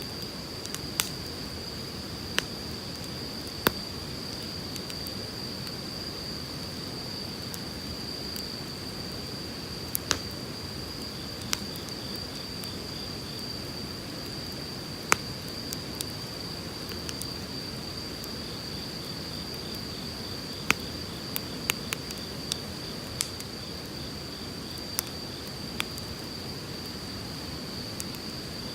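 Wood fire crackling, with sharp pops every few seconds, over the steady rush of a flowing stream. A continuous high-pitched insect drone runs underneath.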